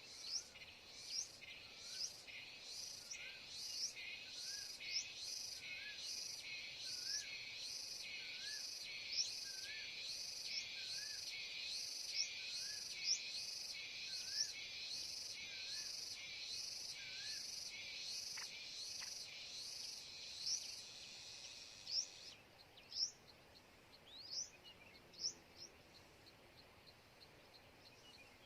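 An insect drone, like a cicada, runs in fast even pulses and cuts off suddenly about 22 seconds in. Over it a bird gives short repeated chirps about once a second, fewer and more scattered near the end.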